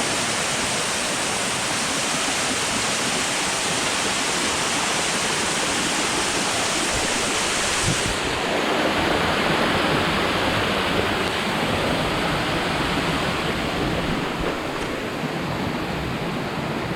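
Steady rushing water, an even roar with no breaks. About eight seconds in, the highest hiss drops away abruptly and the sound grows slightly fuller.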